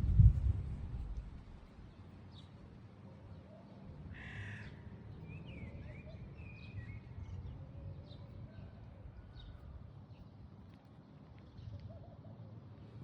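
A low thump at the very start, then one short harsh call like a crow's caw about four seconds in, followed by a few faint chirps over a quiet background.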